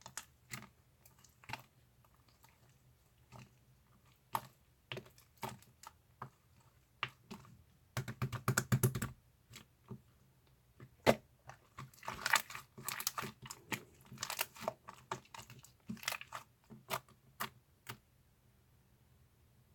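Slime being squished and pressed by hand, giving irregular sticky clicks and pops, with a dense run of pops about eight seconds in and another busy stretch from about twelve to fifteen seconds, thinning out near the end.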